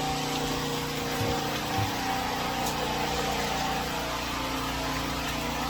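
A steady machine hum, with several steady tones over a background hiss.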